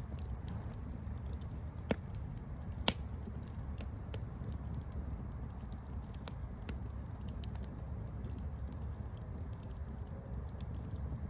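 Campfire crackling: a steady low rumble of burning wood with scattered small ticks, and two sharp louder pops about two and three seconds in.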